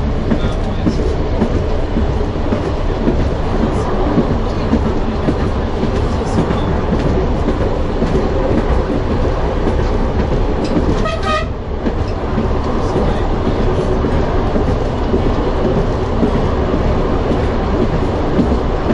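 Narrow-gauge train running steadily along the track, a dense low rumble with rail clatter, heard from on board. About eleven seconds in, a short horn blast sounds for about a second.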